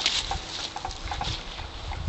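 Footsteps of someone walking outdoors, a short scuffing step about every half second or so, over a low rumble.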